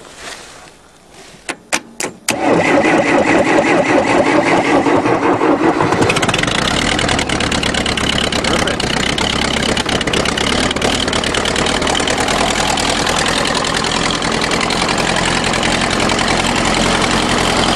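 1974 Case diesel tractor's 2-litre engine being cold-started on a shot of ether, with no glow plugs: a few sharp clicks, then the starter cranks for about three and a half seconds before the engine catches about six seconds in and runs steadily.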